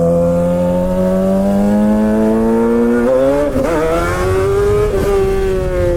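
Straight-piped Suzuki GSXR 600 inline-four with no catalytic converter, pulling under throttle. The revs climb steadily, jump and wobble briefly just past halfway, then ease off and fall near the end.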